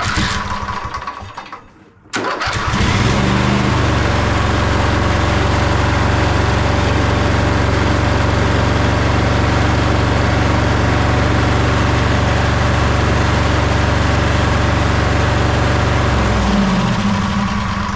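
Sabre by John Deere lawn tractor's twin-cylinder engine started about two seconds in. It runs steadily, then is shut off near the end and spins down with falling pitch. It is running on only one cylinder because the right cylinder is not firing.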